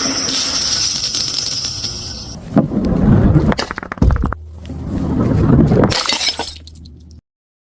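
Glass bottle shattering, its shards ringing and tinkling for about two seconds, followed by a few heavier, lower impacts. The sound cuts off abruptly near the end.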